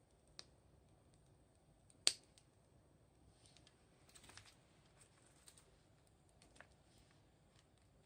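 Burning firewood crackling faintly in a bonfire: scattered pops and ticks, with one sharp pop about two seconds in and a short cluster of crackles a little later.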